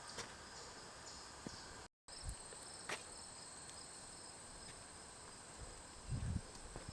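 Insects chirring in a steady, high-pitched chorus, with a few faint clicks and some low thumps near the end.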